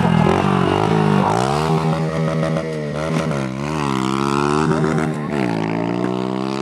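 Pit bike engine revving on a flat track, its pitch climbing and falling several times as the rider works the throttle, with a sharp dip and recovery about three and a half seconds in.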